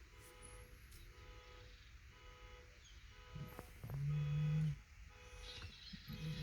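A low, steady horn-like toot about four seconds in, lasting under a second, and a second one starting near the end, over faint outdoor background noise.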